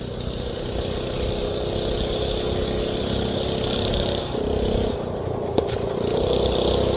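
Small mini bike engines running close by, growing louder over the first second, easing off briefly about four seconds in, then picking up again.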